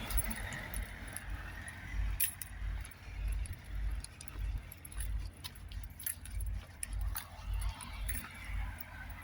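Light, scattered metallic jingling and clinking over an uneven low rumble.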